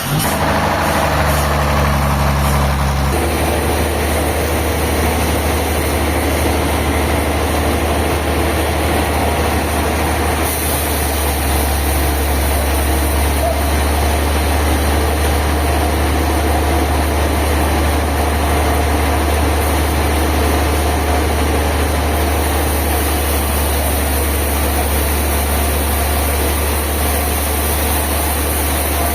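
A heavy engine running steadily, a deep hum under a constant wash of machine noise. The low hum shifts about three seconds in and then holds.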